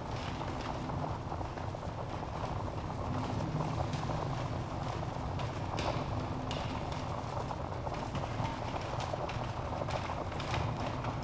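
Wood fire burning in a fireplace: a steady low rumble of flames with scattered crackles and pops of burning logs.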